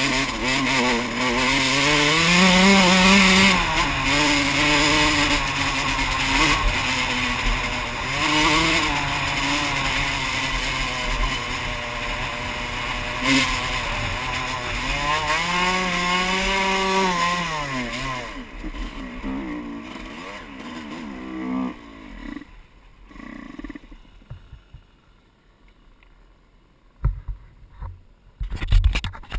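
Yamaha YZ125 two-stroke dirt bike engine being ridden, its note rising and falling with the throttle. The engine sound fades away after about two thirds of the way through, leaving it much quieter, with a few knocks near the end.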